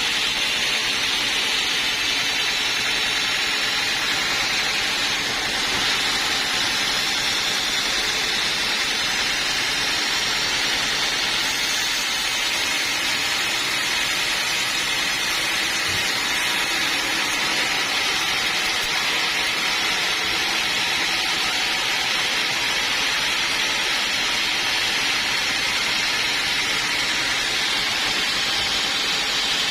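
Sawmill saw running steadily: a continuous machine noise without breaks or changes.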